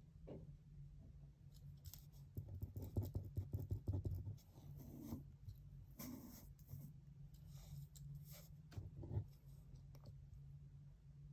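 Pen writing on paper: short scratching strokes and light taps in irregular runs, over a steady low hum. A brief, slightly louder rustle of paper about six seconds in.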